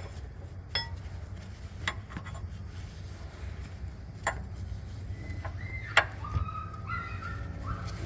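A few sharp metal clinks, spread out, as a steel clamp over a stabilizer-bar rubber bushing is fitted and bolted up with hand tools, over a steady low hum.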